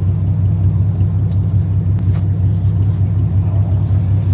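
A vehicle engine idling steadily, a loud, even low drone, with a couple of faint clicks about a second and two seconds in.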